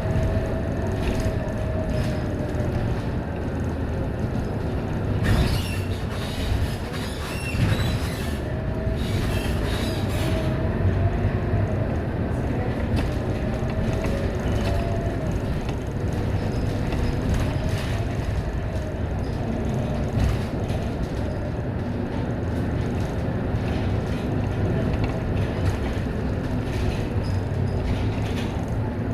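Scania K230UB Euro V single-deck bus on the move: a steady engine and drivetrain rumble with a faint whine that wavers up and down in pitch. Between about five and ten seconds in, short spells of hiss and rattle are added.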